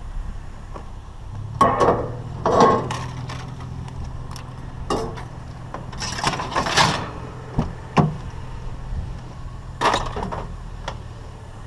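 Discarded household items being moved and knocked about while a pile is rummaged through: a series of irregular clatters and knocks.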